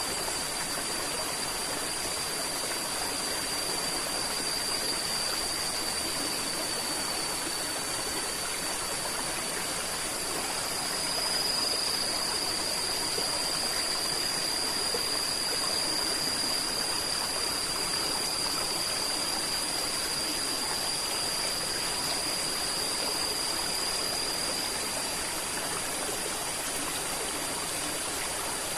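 River flowing: a steady rush of water with no breaks, and a thin, steady high-pitched whine above it.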